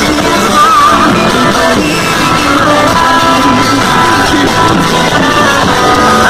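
Loud music with a sung voice wavering in pitch, played over a paredinha, a small wall of loudspeakers of the kind built for Brazilian sound-system contests.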